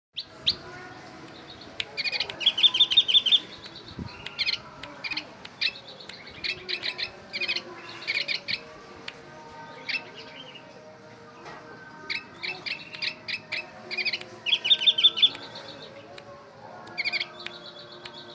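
Pleci (white-eye) singing in the style of a kutilang (sooty-headed bulbul): clusters of loud, sharp chirps with two bursts of fast trills, one a couple of seconds in and one near 15 seconds.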